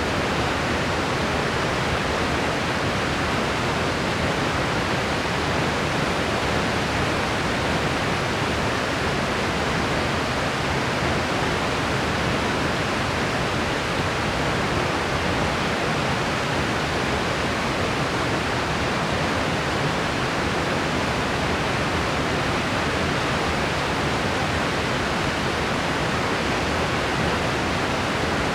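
Steady white-noise hiss, even and unchanging, spread across low and middle pitches and thinning out at the very top.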